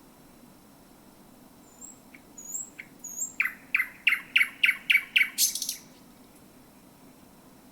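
Thrush nightingale singing: a couple of soft notes and thin high whistles, then a fast series of about eight loud, sharp strokes, about four a second, ending in a brief harsh rattle.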